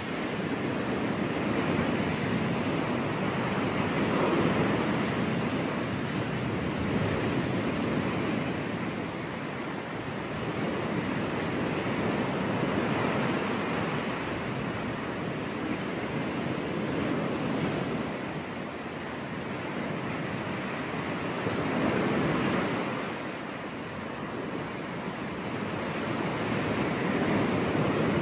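Ocean surf: waves breaking and washing ashore in a continuous rush that swells and eases every several seconds, with some wind.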